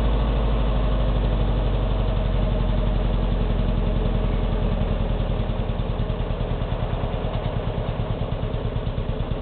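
Truck engine running at the fast idle it has after every start, the idle gradually slowing and settling toward a normal idle, its beat growing more distinct in the second half.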